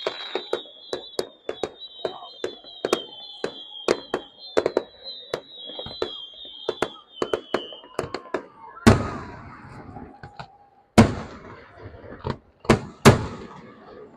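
Fireworks display: a rapid string of sharp cracks under a wavering high whistle for the first eight seconds or so, then fewer, heavier bangs with echoing tails from about nine seconds on.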